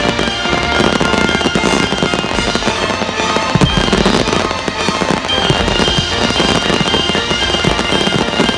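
Fireworks bursting in rapid succession, a dense run of bangs and crackling, over loud show music.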